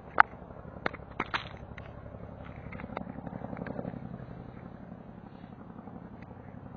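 Cat purring, a low rapid pulsing that swells in the middle. A few sharp clicks or taps come in the first second and a half.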